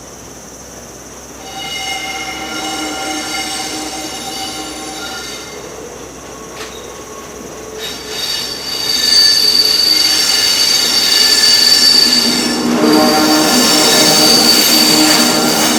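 Steel wheels of a limestone freight train's wagons squealing on the rails, several high pitches at once. The squeal starts about a second and a half in and grows much louder about eight seconds in.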